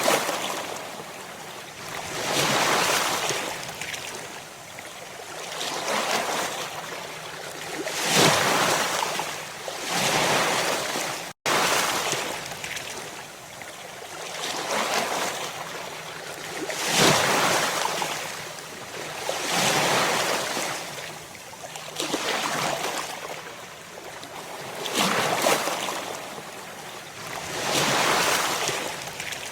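Ocean waves breaking and washing in on the shore, one surge after another about every two to three seconds. The sound cuts out for a moment about eleven seconds in.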